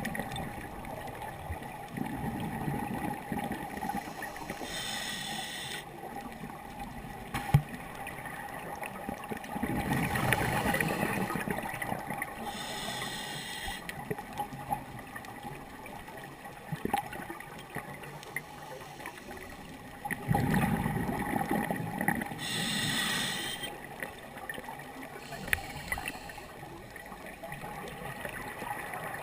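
Scuba diver breathing underwater through a regulator, about three breath cycles: exhaled bubbles burbling, then a high hiss of inhaled air from the demand valve. A steady faint hum runs underneath.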